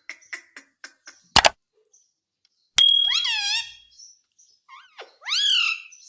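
Indian ringneck parrot giving two loud, shrill calls, one a little under halfway through and one near the end, after a few light clicks and one sharp knock.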